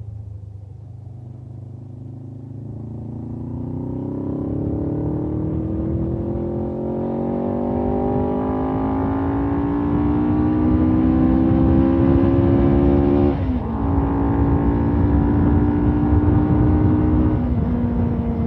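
Suzuki GS500F's parallel-twin engine with its stock exhaust, accelerating steadily under load with the pitch climbing slowly for about ten seconds. About three-quarters of the way through there is a brief dip as it shifts up a gear, then it pulls and rises again, easing off slightly near the end.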